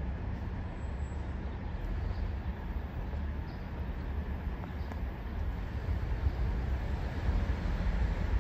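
Low rumble of an NJ Transit train approaching from a distance, growing a little louder near the end.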